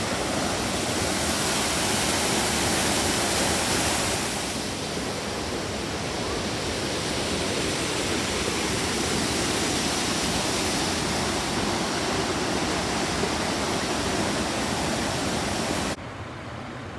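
Waterfall rushing: a steady, loud wash of falling water that drops suddenly to a quieter level about sixteen seconds in.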